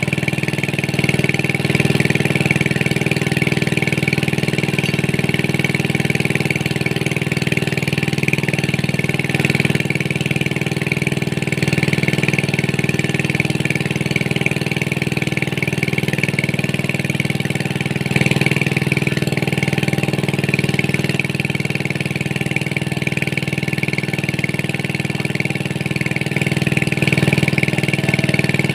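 A small engine running steadily at a constant speed, with an even low hum and a fine regular ticking that do not change.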